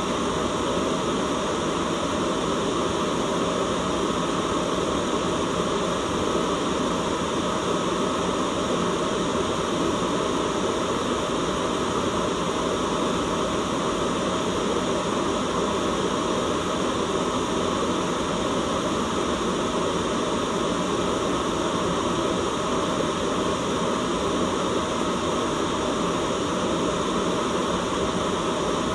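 Steady, unchanging white noise, a constant hiss with no breaks or events.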